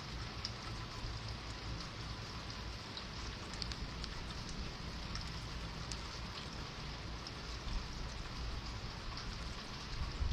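Steady rain falling, with scattered drops ticking on a nearby surface.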